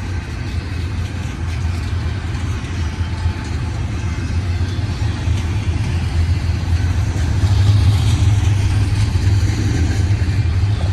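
Freight train passing: a steady low diesel hum with rolling noise above it, growing louder about eight seconds in.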